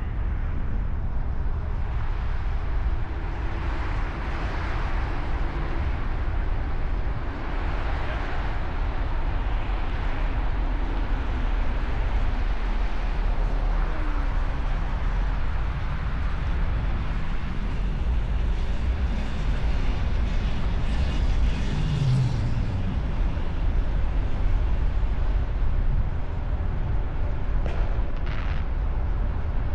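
Steady low rumble of vehicle traffic, with one louder swell about two-thirds of the way through, as of a vehicle passing close.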